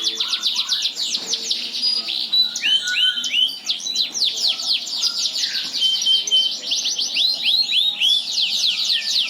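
F1 Yorkshire canary singing a long, unbroken song. It runs mostly as fast trills of short falling notes, several to the second, with a few slower looping glides and briefly held whistles mixed in.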